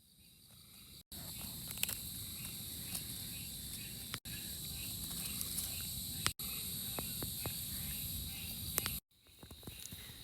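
Night ambience of crickets chirping steadily, broken by a few abrupt silent cuts.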